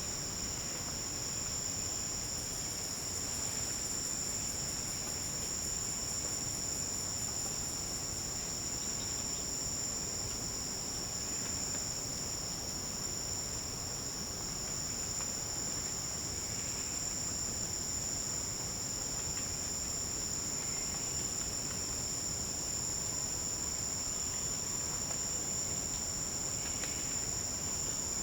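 A steady chorus of forest insects trilling without a break at two high pitches. From about two to eight seconds in, another insect adds a faster, pulsing buzz above it, and a few faint short calls come through now and then.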